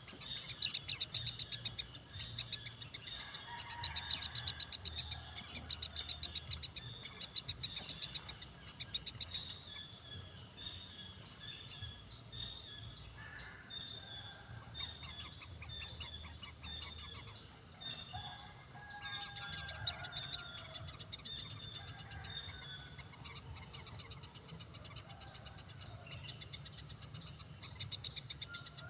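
Insects trilling steadily in high, rapid pulses, with scattered short bird chirps among them.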